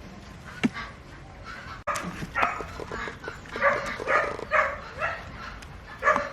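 A dog barking and yipping in a run of short calls, with a few sharp clicks between them.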